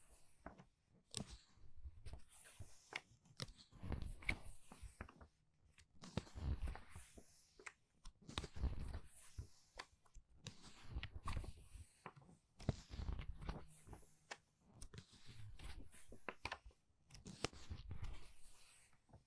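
Paper book pages being turned quickly by hand, one after another, roughly every two seconds. Each turn is a crisp paper rustle and flick, with a soft low thump as the page lands.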